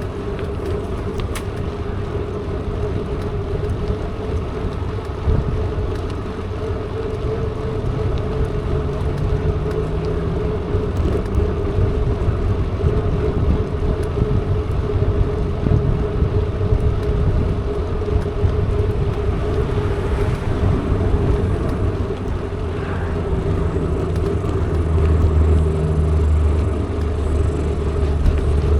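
Mountain bike rolling along: wind rushing on the microphone with a steady tyre hum, and a deeper rumble swelling near the end.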